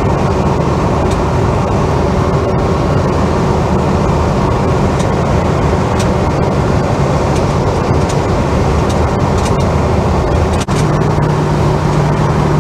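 Holden HK car driving along at road speed, heard from inside the cabin: a steady mix of engine drone and road noise. About ten seconds in, the sound dips for a moment and a stronger, steadier low hum takes over.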